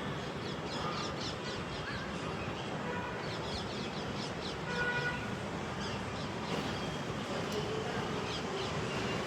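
Birds chirping in quick runs of short, high calls, several times over, above a steady background noise.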